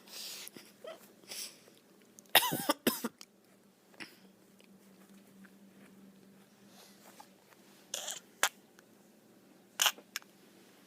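Silly vocal noises from someone just waking up: breathy, cough-like huffs, with a loud, short squeal that wobbles in pitch about two and a half seconds in, and a few short sharp huffs near the end.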